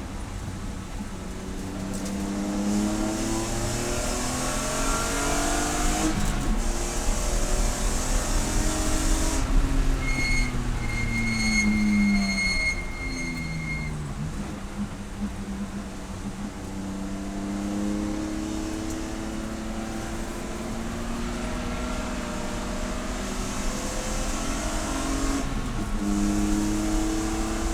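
Race car engine running hard through a lap: its pitch climbs under acceleration and drops away under braking and downshifts, several times over. A high electronic-sounding beep rings for a few seconds in the middle.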